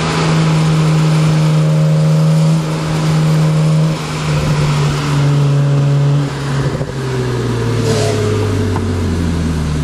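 BMW 335i's turbocharged straight-six engine and exhaust running hard at high revs, holding a steady pitch for about six seconds. Over the last few seconds the pitch drops in several steps as the revs fall.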